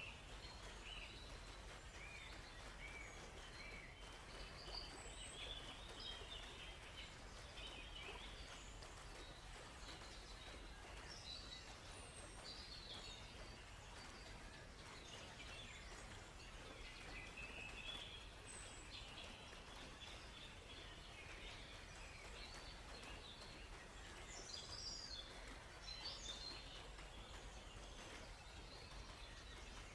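Faint forest birdsong: many small birds chirping and twittering in short, scattered calls over a steady, even background hiss.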